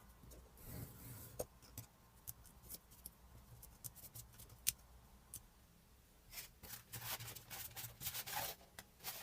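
Quiet hand work at a bench: scattered small clicks, scrapes and rubbing, growing busier in the last few seconds.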